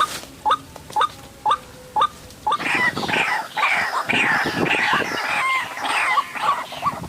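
White-breasted waterhens calling: a short rising note repeated about twice a second, then from about two and a half seconds in a loud burst of harsh, overlapping croaking calls.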